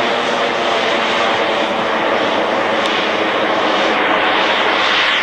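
Large radio-controlled model English Electric Lightning jet in flight, its gas-turbine engines running loud and steady, a dense rushing jet noise.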